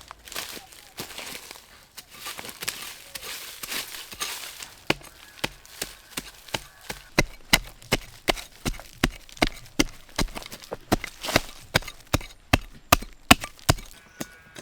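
Rustling and scraping, then from about five seconds in a fast, even run of chopping strokes into wood, about three a second.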